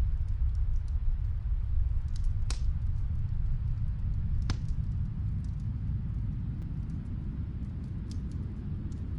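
Steady low rumble of snowstorm wind, with a faint wood fire crackling now and then and two sharper pops about two and a half and four and a half seconds in.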